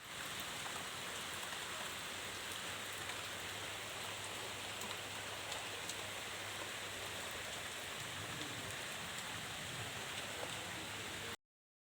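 Steady hiss of water, like rain falling, with faint scattered ticks. It cuts off suddenly shortly before the end.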